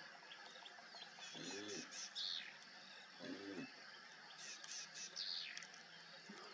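Wild birds chirping and trilling in bursts, with a short low call that rises and falls in pitch heard twice, about two seconds apart.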